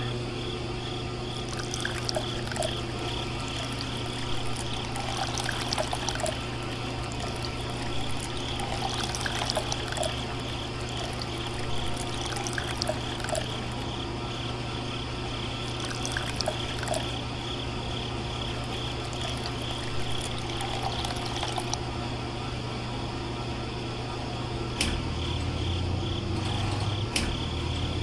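Small DC-motor water pump switched on, then running with a steady hum while water pours and trickles from a small PVC pipe outlet.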